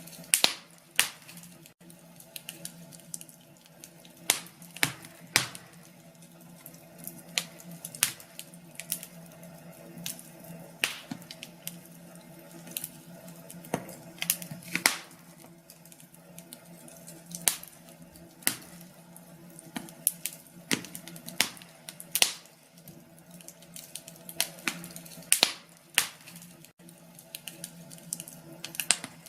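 Wood fire crackling in a fireplace: irregular sharp pops and snaps, a second or so apart, over a faint steady low hum.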